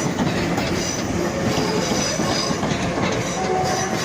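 Class 319 electric multiple unit pulling out of the station, its wheels clattering steadily over the rails with brief faint squeals.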